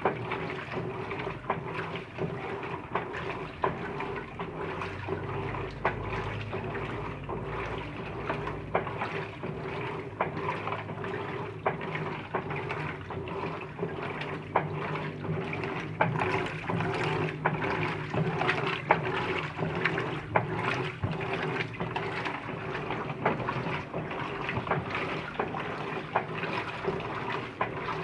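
Electrolux LT15F top-loading washing machine washing clothes: a steady motor hum with water sloshing and frequent small splashes.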